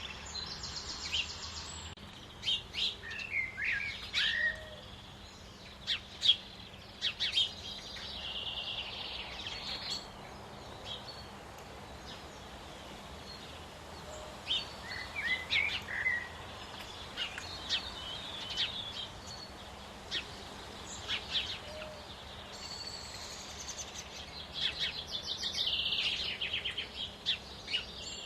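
Small songbirds calling and singing: scattered short, sharp chirps throughout, with fast trilling song near the start and again near the end.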